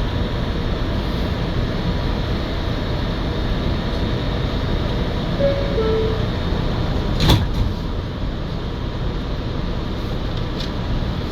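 Inside an R211A subway car running through the tunnel: a steady low rumble of wheels on rail, with one sharp clank about seven seconds in and a fainter one near the end.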